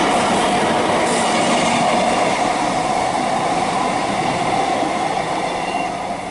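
Great Western Railway Class 150 Sprinter diesel multiple unit passing through a station: a steady, loud train rumble that eases a little near the end.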